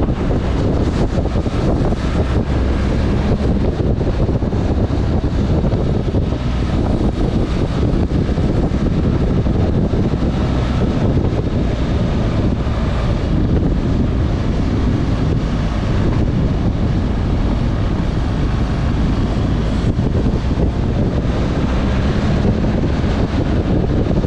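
Motorcycle being ridden, its engine running under heavy wind rush buffeting the microphone.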